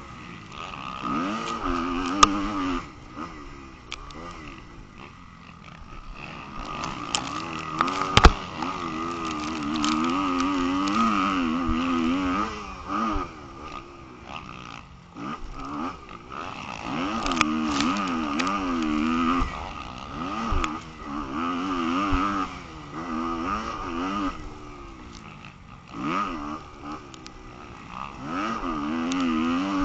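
Motocross bike engine revving hard and backing off again and again, its pitch climbing and dropping in waves as the throttle is worked, with a few sharp knocks.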